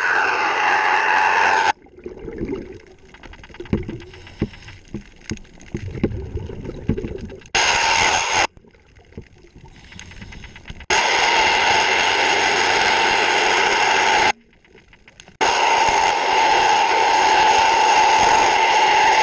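Underwater sound of a scuba diver's exhaled bubbles rushing past the microphone in several long bursts that start and stop abruptly. In the quieter gaps between them come scraping and tapping from cleaning the boat's running gear.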